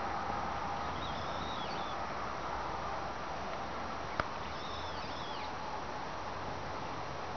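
Small birds chirping in two short bursts of high, quickly bending calls, over a steady outdoor background noise, with one sharp click about four seconds in.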